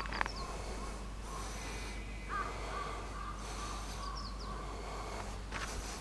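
Birds calling faintly and repeatedly in the background, with a footstep or two on the paved path near the start and near the end.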